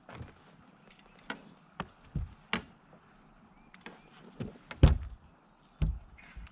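A string of irregular knocks and thumps on a fishing boat, about a dozen sharp strikes with the loudest a little before five seconds in, as a freshly caught fish and gear are handled aboard.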